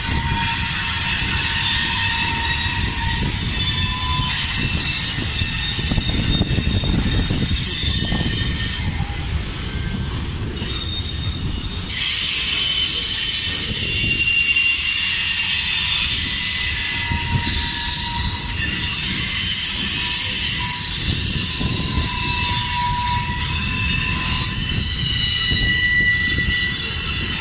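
CSX manifest freight train rolling past close by: a steady low rumble of the cars with wheels squealing in several high, shifting tones. Really loud.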